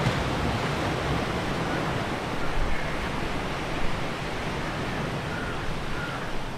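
Steady rushing noise of sea waves and surf.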